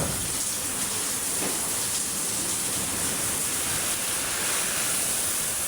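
Heavy rain pouring down in a steady rush.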